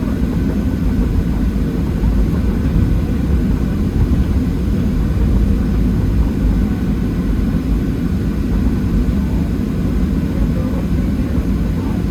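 Steady low rumble of a Boeing 737-700's CFM56 jet engines and airflow, heard from inside the passenger cabin.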